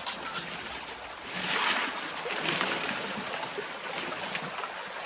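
River water running steadily through a sluice box, swelling louder for about a second early on, with a single sharp clack near the end.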